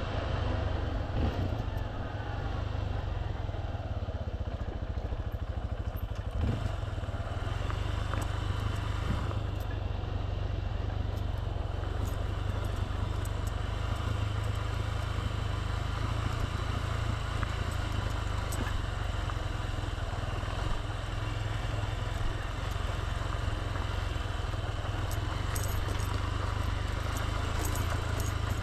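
Motorbike on the move, its engine running steadily under heavy low wind rumble on the microphone.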